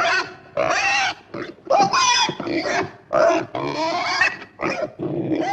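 A run of short, high-pitched, squealing animal-like calls, about eight of them in quick succession, each bending up and down in pitch.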